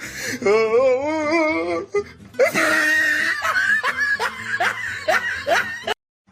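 A person laughing hard: first a wavering, sing-song laugh, then a run of repeated ha-ha bursts that cuts off suddenly near the end.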